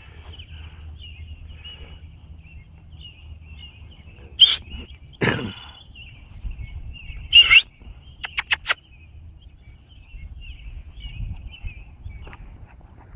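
Songbirds chirping on and off over a low outdoor rumble, with a few loud, short sharp sounds about halfway through, the last of them four quick clicks in a row.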